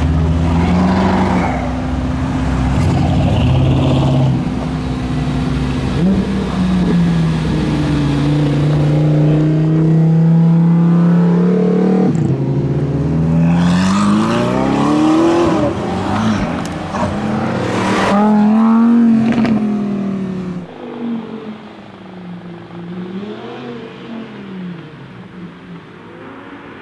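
Mercedes-AMG GT Black Series twin-turbo V8 running at a steady engine speed, then revving up twice in rising sweeps about halfway through. After that the sound drops away and the engine note wavers lower.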